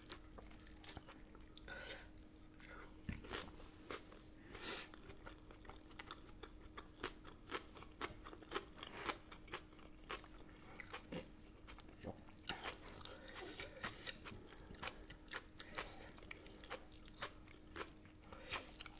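Close-up chewing and crunching of food, with many short wet mouth clicks and smacks coming irregularly throughout.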